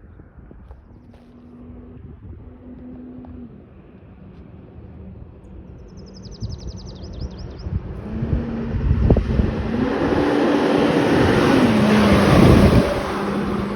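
Emergency vehicle driving past. Its engine note steps up and down in pitch while engine and road noise grow louder, peak about twelve seconds in, then ease off.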